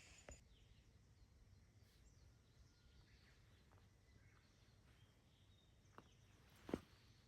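Near silence: faint outdoor ambience with a low rumble, broken by a small click about six seconds in and a sharper knock just after it.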